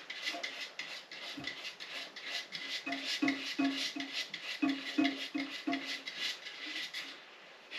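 Plastic toilet-tank float being pushed and twisted onto its fill-valve rod: quick, uneven rubbing and scraping strokes with short squeaks, a few a second, easing off near the end.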